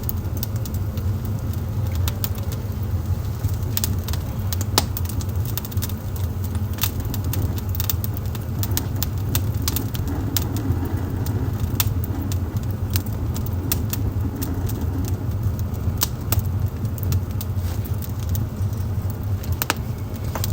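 Wood fire burning in a fireplace: a steady low rumble with many sharp crackles and pops at irregular intervals.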